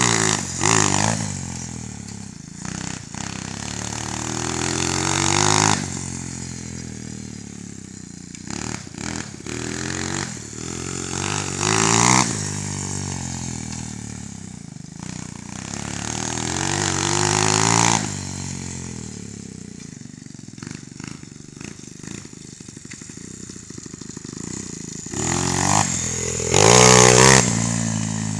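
Coolster Speedmax 125cc single-cylinder four-stroke pit bike engine revving hard and dropping back again and again as the bike is ridden, rising to a peak about every six seconds, loudest near the end.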